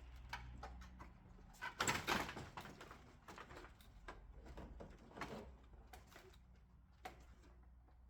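Hand work on a wrecked car's plastic front bumper: scattered clicks, knocks and rattles of plastic and fasteners as it is worked loose, with a loud clattering cluster about two seconds in and smaller knocks later.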